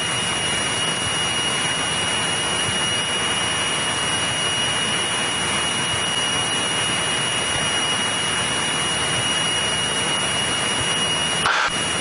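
Steady in-flight cabin noise of a Cessna 172E's Continental O-300 engine and propeller at constant power, with a thin steady high whine on top. A brief click or break comes near the end.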